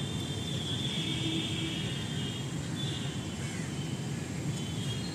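Train crossing a steel truss rail bridge, heard at a distance as a steady low rumble, with light high chirping over it.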